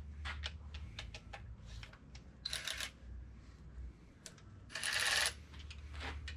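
Light metallic clicks and clinks of hand tools working on the engine, with two short, louder rattling bursts about two and a half and five seconds in.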